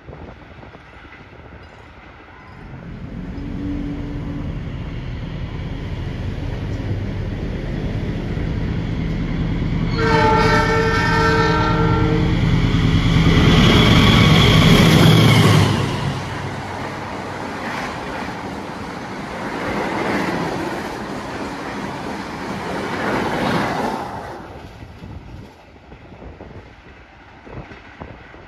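A passenger train with a diesel locomotive passes at speed through a station. The engine hum grows louder, the horn sounds a chord of several tones for about two seconds about a third of the way in, and the carriages run past for several seconds before the sound dies away near the end.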